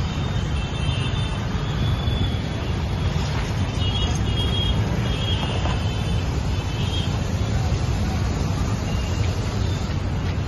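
Mahindra Thar's engine running steadily at low revs as the SUV crawls up over a kerb, a low, even sound with no revving.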